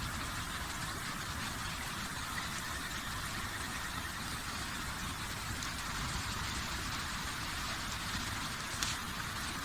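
Wood campfire burning with a steady hiss and one sharp pop near the end.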